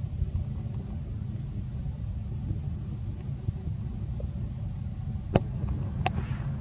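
Steady low rumble of background noise, with a single sharp click a little past five seconds in and a brief higher-pitched sound about a second later.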